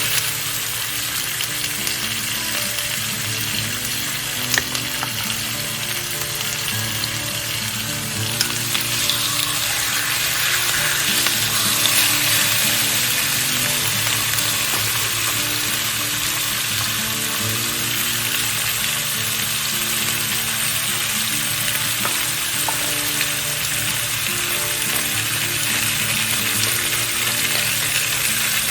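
Food sizzling as it fries in hot oil in a skillet, a steady crackle that gets louder about eight seconds in.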